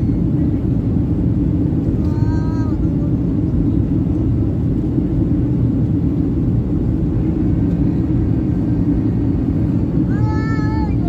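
Steady cabin noise of a Boeing 737-800 in flight, a loud, even rumble. Two brief high-pitched vocal sounds break through it about two seconds in and again near the end.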